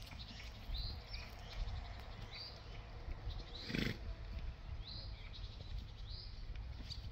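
A bird calling over and over in open country: a short, high, rising-then-falling note about once a second, with one brief louder sound about halfway through, over a steady low rumble.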